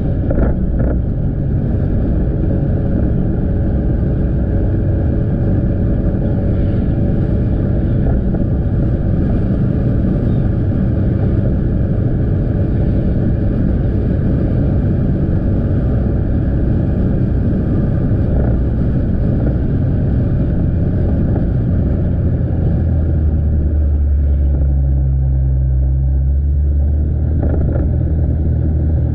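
Motorcycle engine running at a steady pace, with tyre and road noise. A deeper steady hum comes in about three-quarters of the way through.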